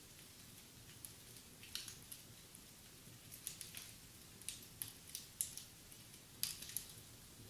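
Wood fire in a fireplace crackling: faint, irregular snaps and pops, with a louder cluster of crackles about six and a half seconds in.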